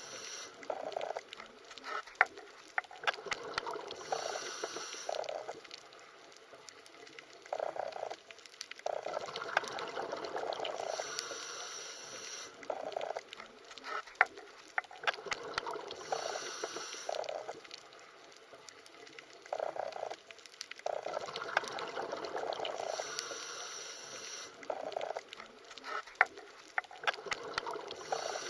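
Underwater water sounds: bubbling and gushing that swells and fades about every six seconds, with scattered short clicks.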